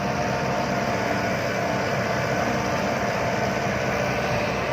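Heavy diesel machinery running steadily, with a steady whine on top: an excavator working while it loads soil into a dump truck.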